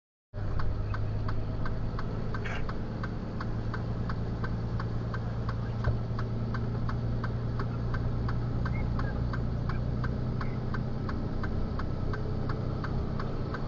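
Flatbed tow truck's engine running with a steady low hum, while the indicator flasher clicks evenly at about three clicks a second.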